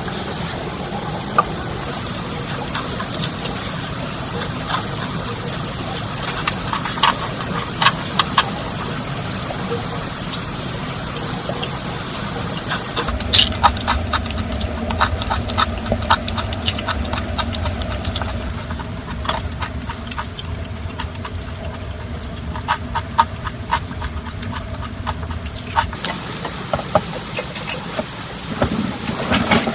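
Steady rain hiss with scattered sharp clicks and ticks. A low steady hum comes in about halfway through and stops a few seconds before the end.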